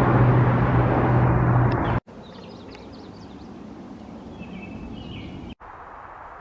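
A loud, steady motor drone with a low hum, typical of a passing aircraft or road traffic, cuts off abruptly about two seconds in. Faint, quick, high bird chirps and a short whistled call follow, then cut off near the end.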